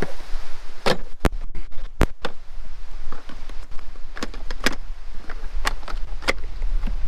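A string of sharp knocks and clacks, irregularly spaced about half a second to a second apart, from gear being handled, over a steady low rumble of wind on the microphone.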